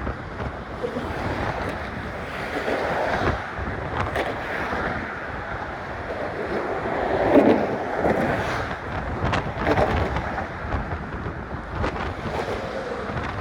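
Gusty wind rushing over a phone microphone that is partly muffled by a sock, swelling and easing, loudest about seven seconds in.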